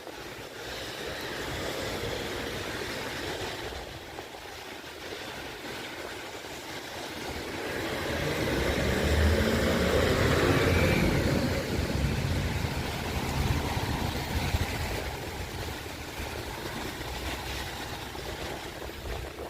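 A vehicle drives past on a wet street: its engine and tyre hiss swell about eight seconds in, peak, and fade over the following few seconds. A steady wash of outdoor noise runs underneath.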